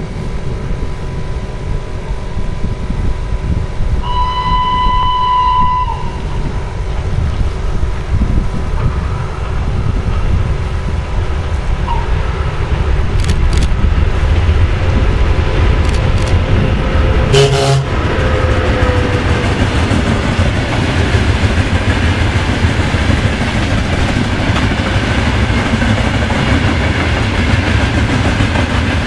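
VL60K electric locomotive hauling a freight train: a steady low rumble that grows louder as the train approaches and passes. About four seconds in comes a clear two-second whistle blast, and near the middle a short, loud blast. By the end the freight wagons are rolling by.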